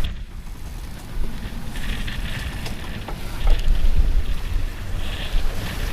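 Strong wind buffeting the microphone aboard a sailboat in heavy seas, with a steady low rumble and hiss that swells twice and a few faint knocks.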